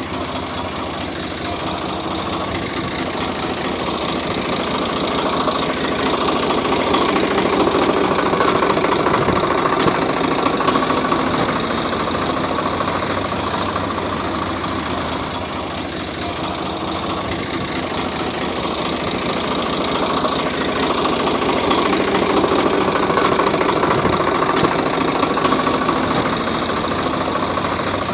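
An engine running steadily with a knocking, idling rumble, growing louder and then softer twice.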